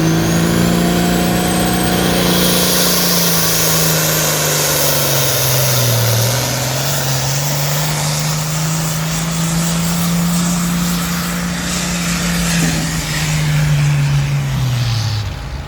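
Engine of a truck or tractor on a pulling run, held at high, steady revs. Its pitch sags about six seconds in and recovers, then drops away near the end before a quick rev.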